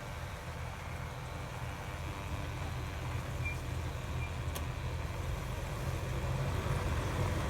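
Jeep engine running at low revs as it crawls down a steep off-road hill, growing slowly louder.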